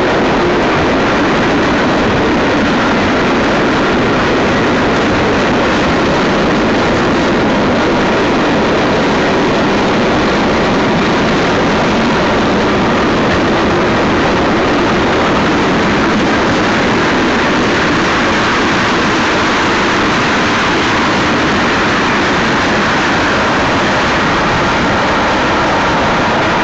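Freight cars of a Union Pacific manifest train rolling past close by: a steady, loud rumble of wheels on rail.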